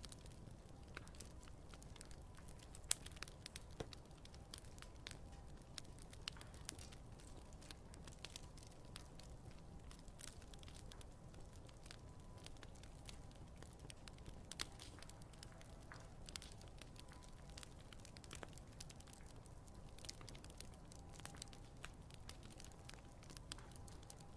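Wood campfire crackling: scattered sharp snaps and pops over a low steady rumble, with the loudest pop about three seconds in. A faint thin whistle comes and goes.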